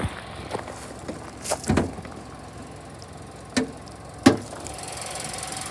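Clunks and knocks of a 2022 Mitsubishi Outlander's hood being unlatched and lifted, the loudest about four seconds in. Near the end the running engine comes up as a steady hum.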